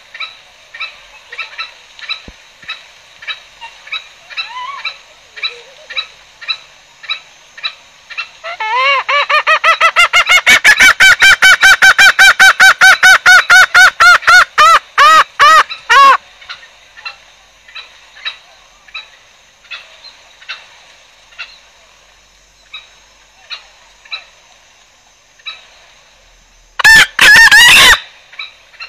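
Green junglefowl lure calls: short calls repeated about every half second. Midway comes a loud, fast run of pitched calls lasting about seven seconds, and near the end one loud short call, likely a crow.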